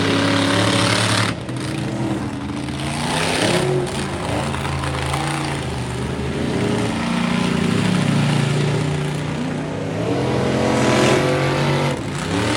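Monster truck engines racing under heavy throttle, their pitch rising and falling as the drivers rev and lift, with a sudden drop about a second in.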